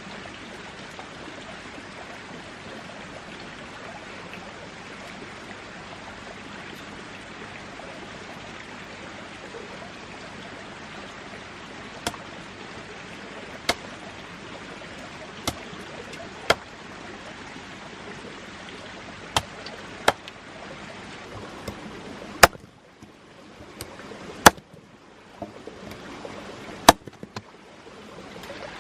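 Steady rushing of flowing water, with sharp single knocks starting about halfway through and coming every second or two, the last few the loudest. Near the end the water noise drops away and only the knocks stand out.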